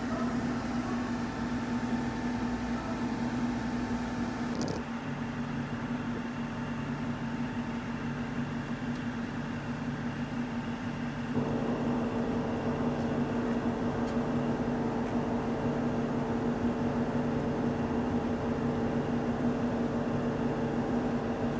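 Steady electric machine hum, like a fan or air-conditioning unit running, with a single click about five seconds in; about halfway through the hum shifts and takes on an added higher tone.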